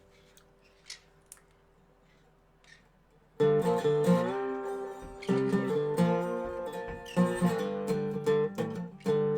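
Dobro, a resonator guitar, played with a slide in a blues jam: after a near-quiet pause it starts up about a third of the way in with loud plucked notes, some of them gliding in pitch.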